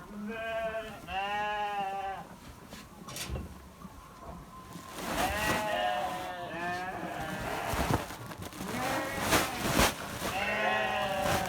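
Sheep bleating, call after call, with several voices overlapping about five to seven seconds in.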